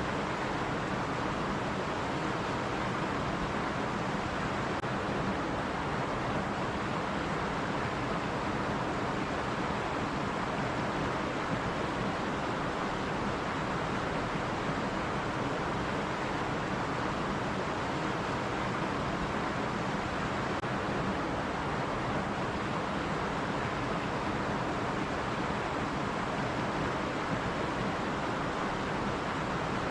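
Stream water running steadily over rocks: a continuous, even rushing.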